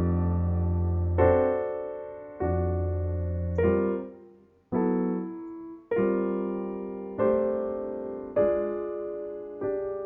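Solo piano music: slow chords struck about once a second and left to ring and fade, over a low bass note in the first half.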